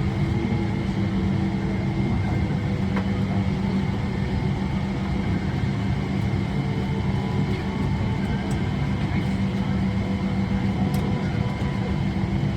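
Steady cabin drone inside a Boeing 777-300ER airliner: an even rush of air with a strong low hum running unchanged.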